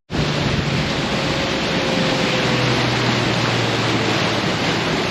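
Boat motor running steadily, with a loud, even rush of wind and water over it, as of a boat under way on open water.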